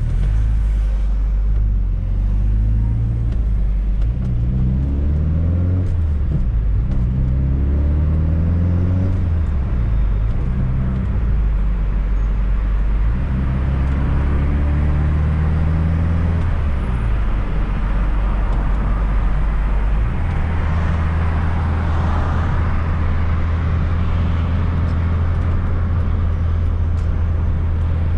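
Fiat Coupe 16V Turbo's four-cylinder turbocharged engine under way. The revs repeatedly climb and drop back as it changes gear, then hold steady from about two-thirds of the way through.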